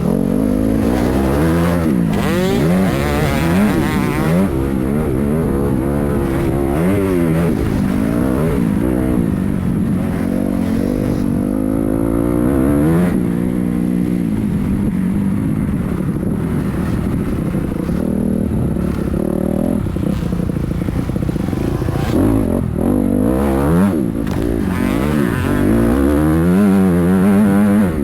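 Motocross dirt bike engine revving hard, its pitch climbing and dropping again and again.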